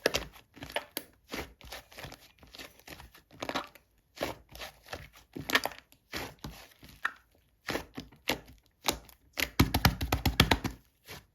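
Rainbow clay slime being squeezed and poked by hand: irregular sticky clicks and crackles, with a quick run of them about nine and a half seconds in.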